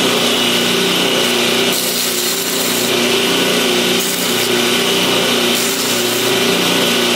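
Electric power tool running steadily at full speed, a constant hum with a high whine, dipping slightly in level about two seconds in.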